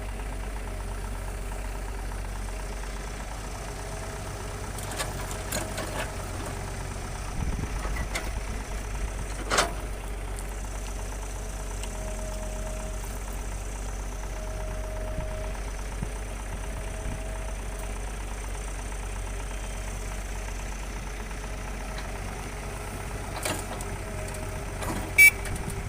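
Diesel engine of heavy earthmoving machinery running steadily with a low rumble, with a few sharp knocks, the loudest near the end.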